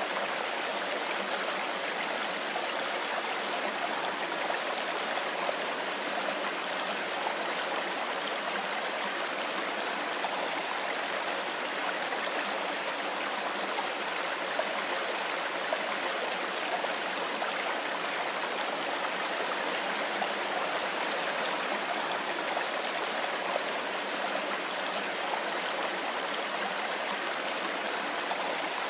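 Mountain river flowing over stones: a steady, even rush of water with a babbling texture.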